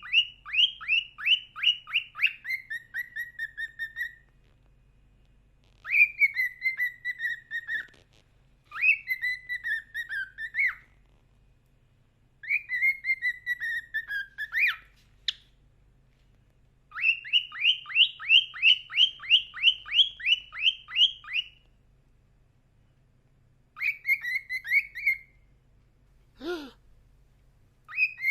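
Cockatiel whistling its song in phrases of quick repeated notes, several bursts a few seconds long with pauses between. A brief lower sound shortly before the end.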